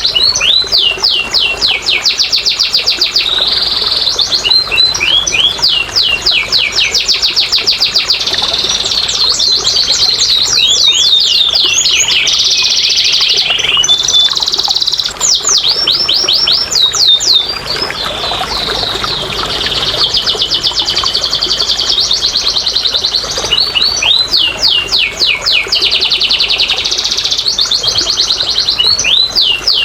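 Domestic canary singing a long, nearly unbroken song of fast trills and rapidly repeated sweeping notes.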